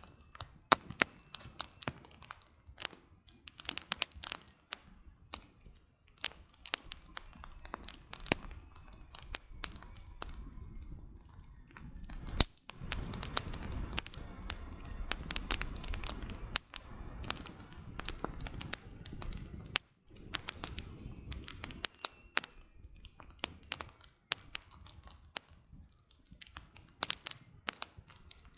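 Campfire burning: firewood crackling and popping in quick, irregular snaps. A low rush of the flames swells for several seconds in the middle.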